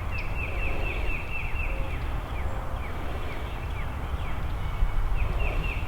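A bird calling a long series of short down-slurred notes, fast at first, then slower and spaced out, then quickening again near the end, over a low rumble of wind on the microphone.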